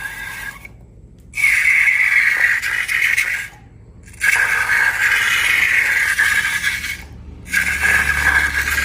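Scraping and rattling in three loud stretches, each starting and stopping abruptly, from slime-making materials being worked by hand.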